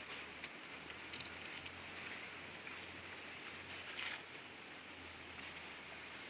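Faint outdoor background noise with a steady low hum and two soft brief sounds, about a second in and near four seconds.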